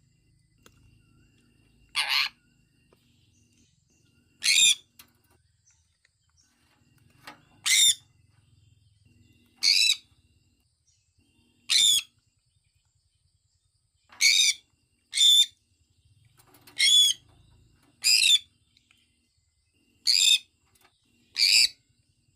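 Sun conure calling: a series of about eleven short, high-pitched chirps, one every one to three seconds.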